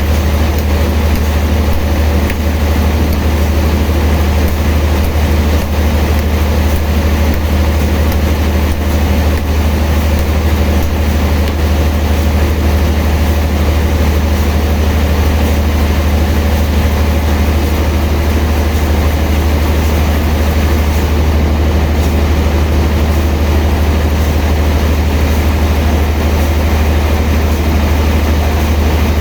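Sawmill machinery running steadily while sawing a large log: a deep, unbroken engine drone under a constant broad saw noise.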